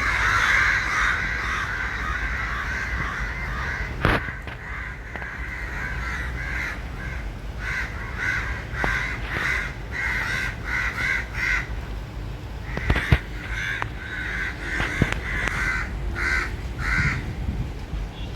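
Many crows cawing together. At first it is a dense, overlapping chorus; then come runs of separate caws in quick succession. Two sharp knocks, about four and thirteen seconds in, stand out among the calls.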